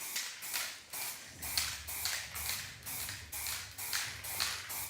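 Aerosol spray-paint can sprayed in short, rapid hissing bursts, about two or three a second.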